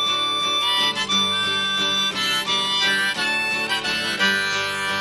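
Harmonica playing an instrumental break over strummed acoustic guitar in a folk song.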